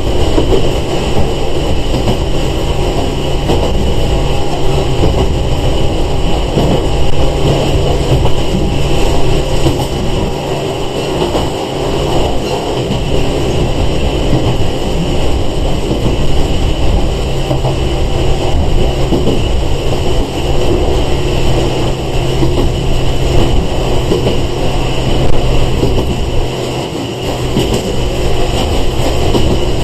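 Interior running noise of a Sangi Railway 101 series electric train (a former Seibu 401 series car) in motion: a continuous rumble of wheels on rail under a steady hum.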